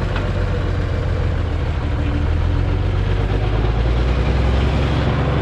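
Heavy equipment engine running steadily, with a low rumble that swells slightly about halfway through.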